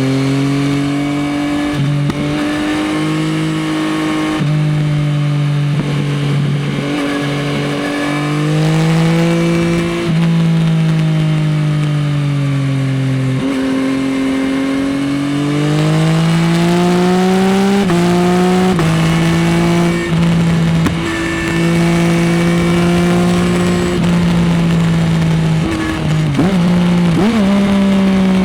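Yamaha XSR900's three-cylinder CP3 engine through an Akrapovič exhaust, heard from the rider's seat while cornering. The engine note falls off on closing the throttle and jumps back up several times through gear changes and reacceleration, with a couple of short throttle blips near the end.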